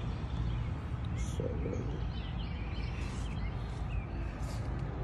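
Faint bird chirps over a steady low rumble.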